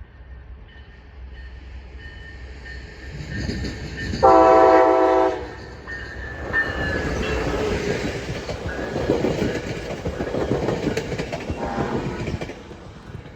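Coaster commuter train led by locomotive 5005, a Siemens Charger diesel, approaching and passing at speed. It sounds one loud horn blast of several notes lasting about a second, then the locomotive and cars rumble and clatter past over the rails, and the sound drops away near the end.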